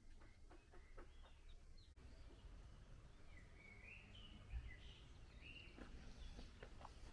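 Faint bird chirps and short warbling calls over a low background rumble, with a few soft ticks in the first couple of seconds.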